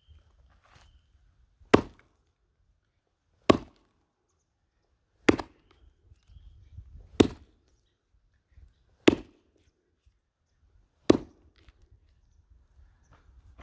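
Six sharp strikes about two seconds apart: a large firewood log being split with an axe and a hammer.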